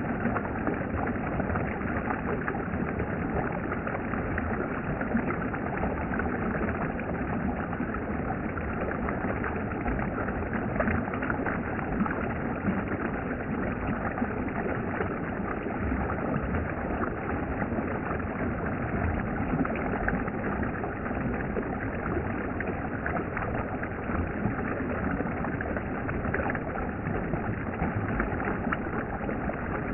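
Mountain stream water flowing over rocks, a steady even rush that does not change.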